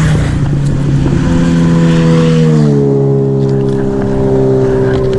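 Sport motorcycle engine running, its pitch stepping down twice and then holding steady, with wind noise.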